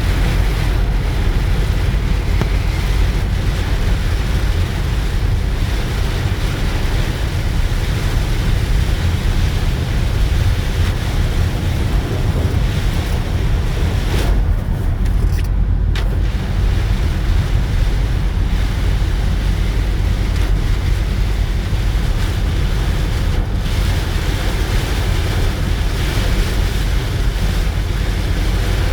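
Rain and road noise heard inside a moving car: a steady hiss over a deep, constant rumble. About halfway through the hiss briefly dies down, then comes back with a click.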